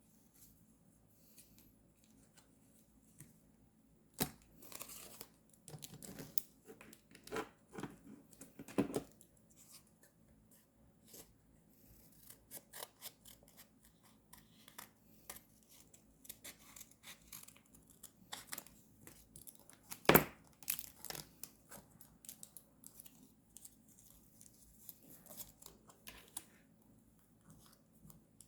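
Paper being handled, torn and cut while decorating a journal: irregular rustling, short tearing strokes and small taps. One sharp click about twenty seconds in is the loudest sound.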